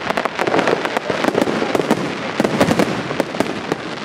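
Fireworks display: many aerial shells and crackling stars bursting in quick succession, a dense run of sharp cracks and bangs that overlap, several a second.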